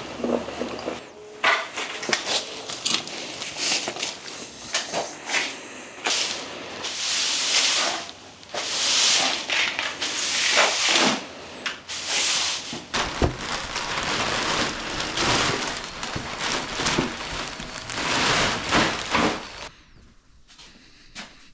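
Clutter and debris being cleared by hand: irregular knocks and clatters of wood and tools being moved, with several second-long bursts of rustling in the middle. It goes quieter near the end.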